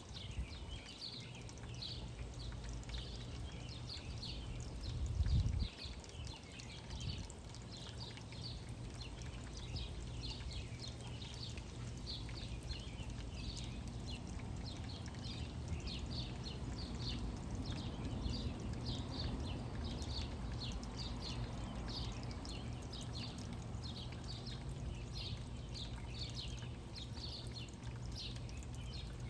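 Small songbirds chirping repeatedly in short calls, over a steady low outdoor rumble, with a single thump about five seconds in.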